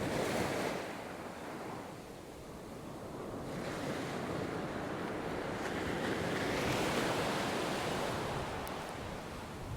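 Surf breaking on a beach, a steady wash that swells and eases, building again past the middle, with some wind on the microphone.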